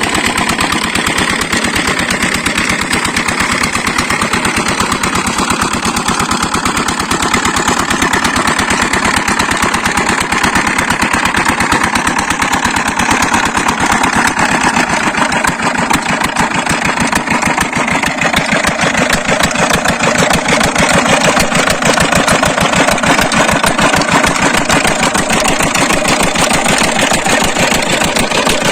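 Old single-cylinder diesel pump-set engine running with a rapid, even firing beat.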